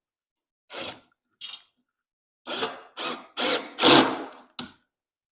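A power drill driving a screw into wood in several short trigger bursts: two brief ones, then a quicker run of longer bursts, the loudest near the end. The screw stops short of full depth.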